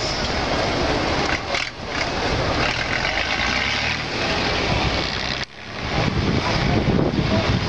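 Trial truck engine running under load over the off-road course, a loud rough rumble with noise on the microphone. The sound briefly dips twice, sharply about five and a half seconds in.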